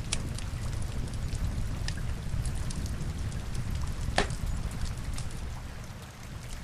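Rain with a crackling log fire: a steady low rumble and hiss of rain under scattered sharp crackles, the loudest pop about four seconds in.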